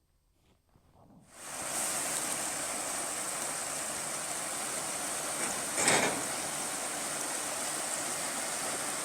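Steady rushing noise sets in about a second and a half in, after near silence, with one brief louder swell about six seconds in.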